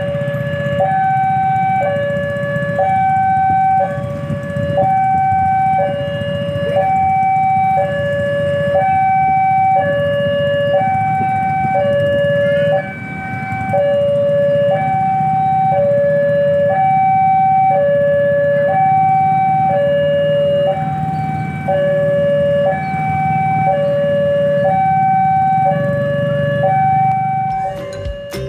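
Level-crossing warning alarm sounding a two-tone hi-lo signal that switches pitch about once a second, over a low rumble. It signals that the gate is closing for an approaching train.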